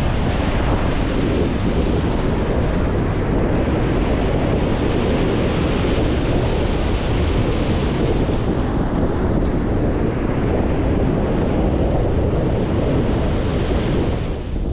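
Strong wind buffeting the camera microphone in a steady, dense roar, with surf breaking on the beach behind it.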